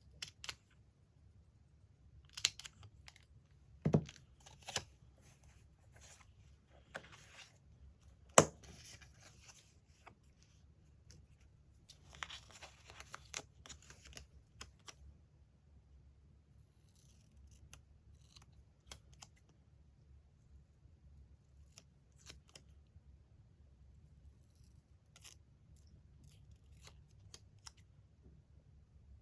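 Magazine paper being cut with scissors, torn and handled, with scattered clicks and a few sharp taps, the loudest about four and eight seconds in. A longer stretch of paper rustling and cutting comes about twelve seconds in.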